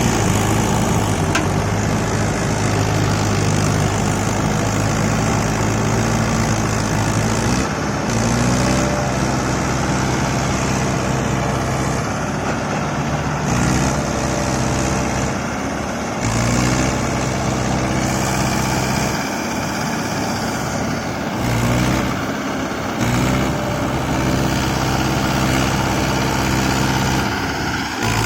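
Diesel farm engine running, its revs stepping up and down several times, with a few abrupt breaks in the sound.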